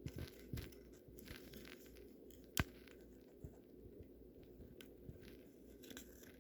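Small flat-blade screwdriver prying at the seam of a plastic garage door remote case: faint scattered clicks and scrapes, with one sharp click about two and a half seconds in.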